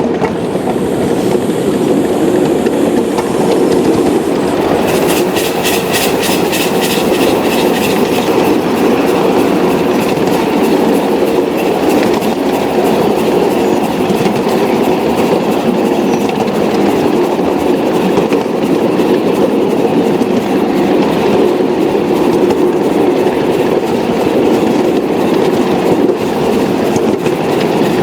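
A train running along the track with a steady rolling rumble, its wheels clicking over the rail joints in a quick regular run about five seconds in.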